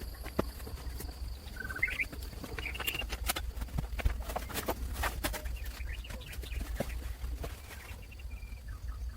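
A few short bird chirps, about two and three seconds in, over a steady low rumble, a constant thin high tone and many scattered sharp clicks.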